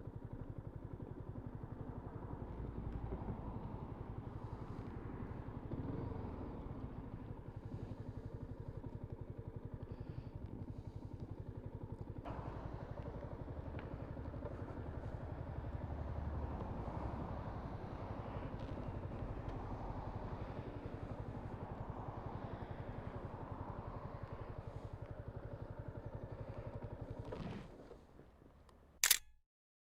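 Yamaha MT-125's single-cylinder 125cc four-stroke engine running at a steady low speed, its firing pulses even throughout. It fades near the end, and a single sharp click follows.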